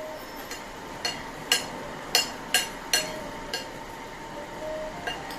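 Spoon clinking against a plate while scooping curry: about seven sharp clinks at uneven intervals, the loudest in the middle, over a faint steady hum.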